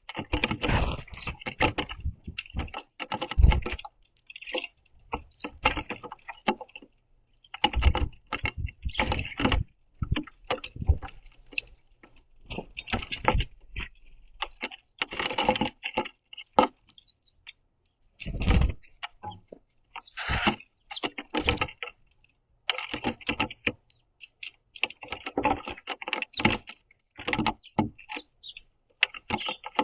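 House sparrows pecking and scrabbling at sunflower seeds on a wooden platform feeder: rapid, irregular clusters of sharp taps and clicks, with short pauses between bursts.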